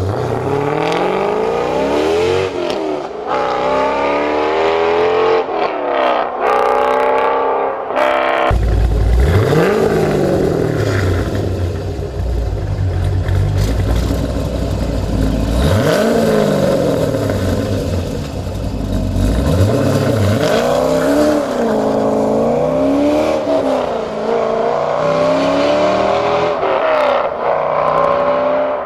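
C5 Corvette V8 running through a B&B Fusion exhaust system, revved again and again, its pitch rising and falling with each rev. The deep rumble grows stronger about eight seconds in.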